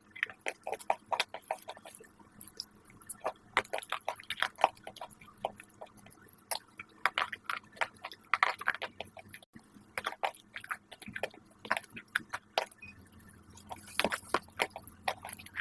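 Crisp crunching and crackling: many sharp, irregular crunches in quick runs, with abrupt cuts between clips, about 3.5 and 9.5 seconds in.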